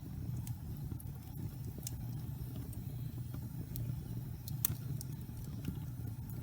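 Log fire burning in a fireplace: a steady low rumble with scattered sharp crackles and pops from the wood, the loudest pop a little past halfway.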